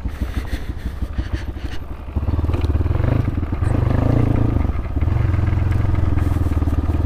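Crossfire RM250 motorcycle engine running with an even, fast exhaust beat, then getting much louder about two seconds in as it is opened up and kept running hard. The exhaust is loud, and the rider suspects its dB killer has been removed or the silencer swapped.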